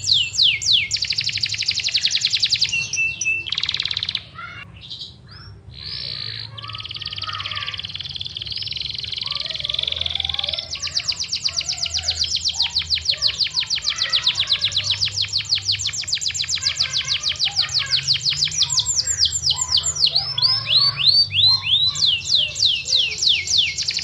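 Yorkshire canary singing a long song of rapid trills, runs of fast falling notes, with a softer, broken passage about four seconds in before the fast trilling resumes.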